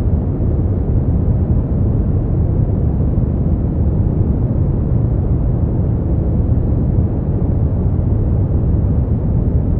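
Continuous generated white-noise sleep track: a steady, deep rushing hiss, heaviest in the low end, with no changes or events.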